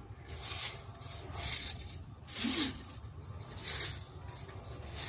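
A traditional broom made from a local tree sweeping dry, dusty ground and fallen leaves in repeated swishing strokes, about one a second.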